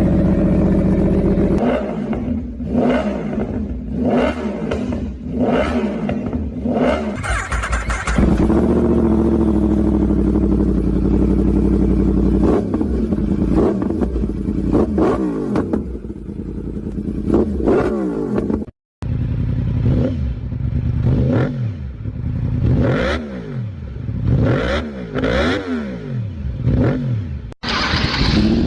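Yamaha R1 inline-four sportbike engine revved again and again through different exhausts, the pitch rising and falling with each blip and held at a steady note for a few seconds near the first third. The sound cuts abruptly twice as one clip gives way to the next.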